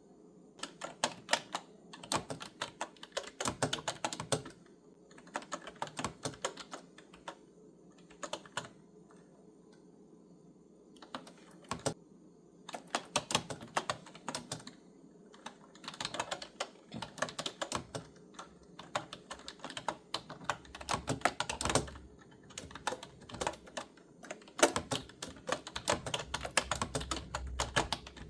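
Clicky computer keyboard being typed on, in bursts of rapid keystrokes broken by short pauses.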